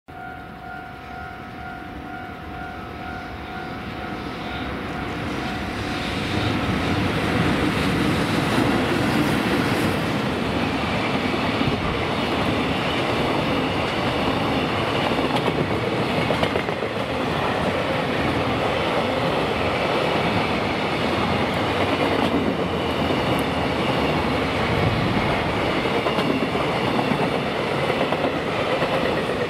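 A level-crossing alarm rings in an even, repeating pulse over the first several seconds as a JR Freight container train hauled by an EH500 electric locomotive comes closer. The train's noise grows louder until about six seconds in, then the long string of container wagons passes steadily, their wheels clacking over the rails.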